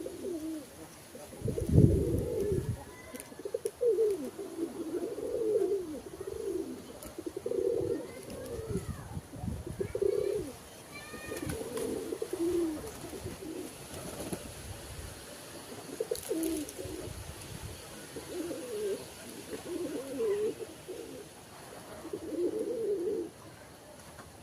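Domestic pigeons cooing, repeated low throaty coos in clusters every second or two, with a louder burst about two seconds in and a few faint higher chirps in between.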